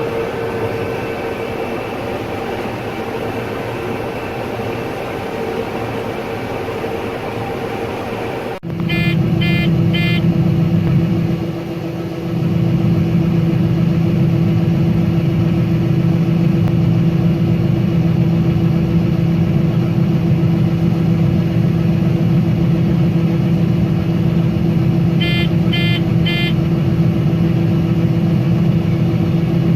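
Combine harvester running steadily while shelling corn, a constant machine drone. About nine seconds in, the sound changes abruptly to a louder, steadier hum. Short quick runs of electronic beeps sound twice, just after the change and again near the end.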